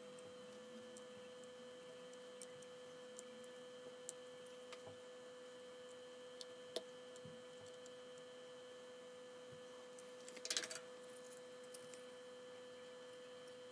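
Faint steady electronic whine with scattered light clicks of small parts being handled on a workbench during soldering and reassembly of a multimeter, and a short crackling rattle about ten and a half seconds in.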